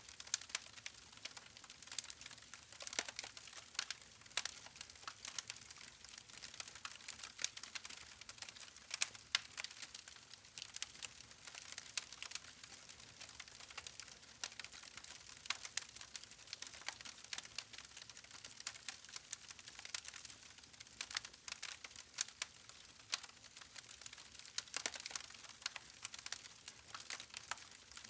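Wood fire crackling: irregular sharp snaps and pops of burning logs over a faint hiss.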